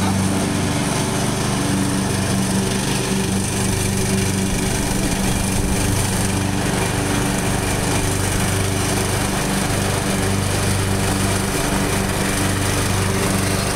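Small tractor engine running steadily at an even speed.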